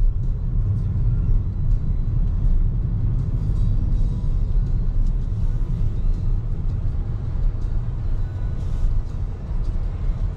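Steady low road and tyre rumble of a BYD Seagull, a battery-electric hatchback, driving along at a constant pace with no engine note.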